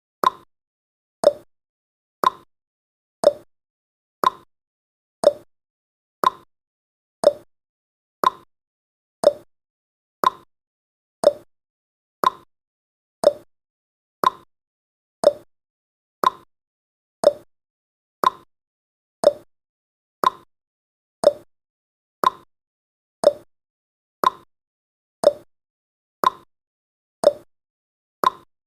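Clock tick-tock sound effect counting off the seconds: one short click each second, alternating higher and lower in pitch.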